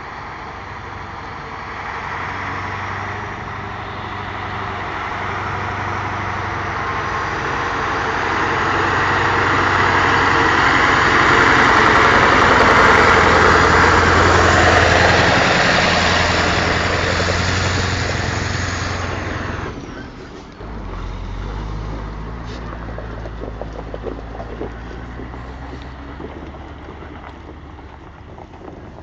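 Scania 143M truck's V8 diesel engine running. It swells louder to a peak around the middle, drops off sharply with a falling whine about 20 seconds in, then settles into a lower, steady running note.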